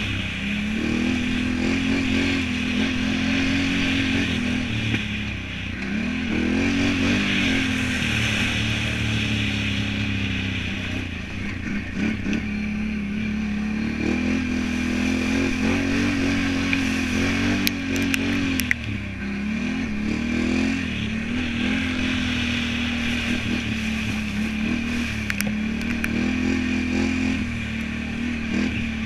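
Can-Am Renegade 1000 ATV's V-twin engine being ridden hard, its note repeatedly rising and falling as the throttle is opened and closed. A few sharp clatters come about two-thirds of the way through.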